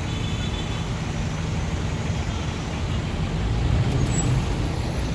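Road traffic: steady low rumble of vehicle engines and tyres on a city avenue. A brief faint high tone comes in the first second.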